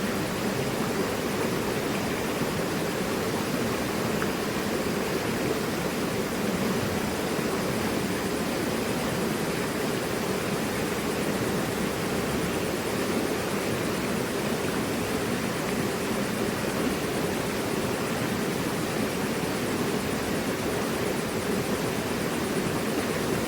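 Mountain river rushing over rocks: a steady, even rush of water, fullest in the low-middle range.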